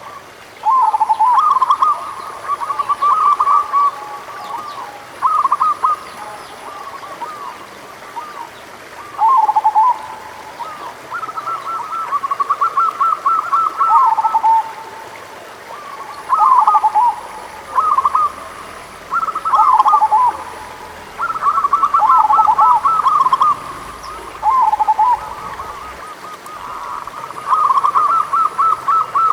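Local zebra doves (perkutut) cooing: phrase after phrase of quick, rolling staccato coos, with short pauses between phrases.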